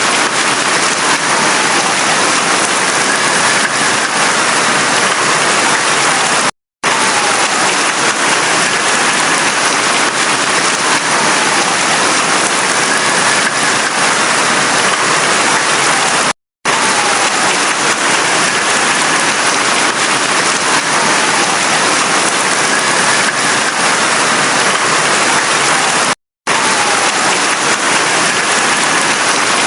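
Heavy rain falling in a steady, dense hiss. The sound cuts out completely for a split second three times, about ten seconds apart.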